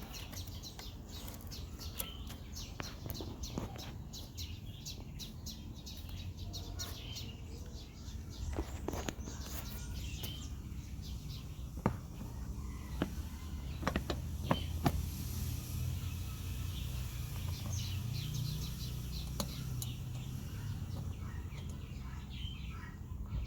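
Birds chirping against a steady low hum, with scattered sharp clicks and knocks throughout.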